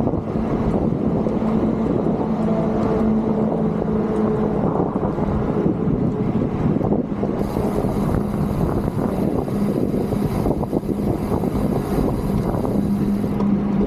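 Wind rushing over the microphone of a moving rider, with a steady engine hum from road traffic.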